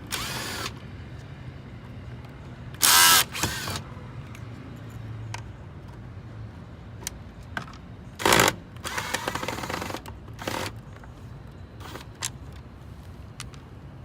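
Power screwdriver backing Phillips screws out of a car's side-mirror housing in several short whirring bursts, the loudest about three seconds in, with small clicks between them.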